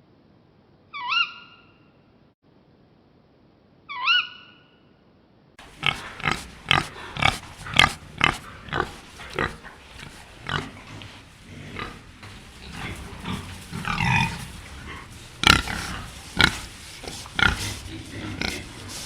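Animal calls: two short, sharp calls that rise and fall in pitch, about three seconds apart, then from about five seconds in a loud run of short rough calls, roughly two a second, uneven in spacing.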